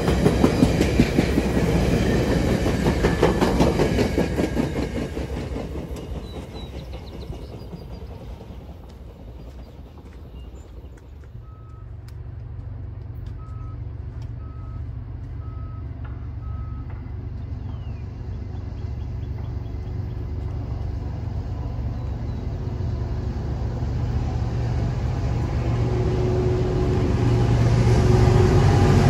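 Stainless-steel passenger cars of VIA Rail's The Canadian rolling past with wheels clattering on the rails, fading away over the first several seconds. Then a CN diesel freight locomotive approaching, its engine rumble growing steadily louder toward the end.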